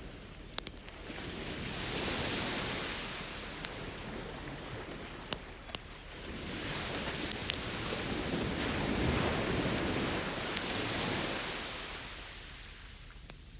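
Ocean waves washing ashore, two slow swells of surf rising and falling, with the occasional sharp pop and crackle of a wood fire burning.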